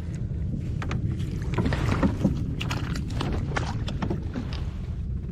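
Water splashing and lapping irregularly around a fishing kayak at sea, over a steady low rumble of wind on the microphone.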